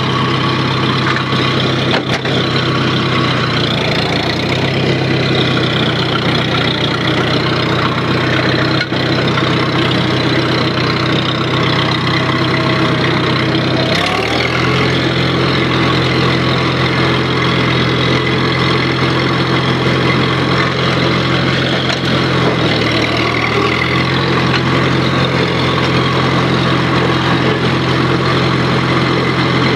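Farmall M tractor's four-cylinder engine running steadily, its speed changing about 14 seconds in and dipping briefly near 23 seconds.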